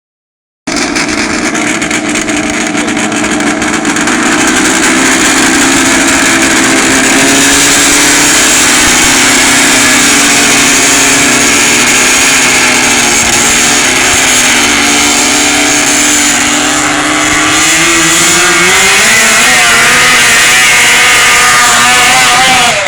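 Twin Arctic Cat 700 snowmobile engines of a homemade machine running loud. The engine note starts suddenly, holds steady for most of the stretch, then rises steadily over the last five seconds as the engines rev up, and cuts off abruptly at the end.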